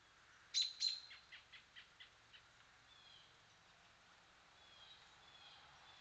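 Bird calls: two loud, sharp notes about half a second in, then a quickening run of about eight fainter notes that fade away. Fainter short whistled notes from other birds follow later.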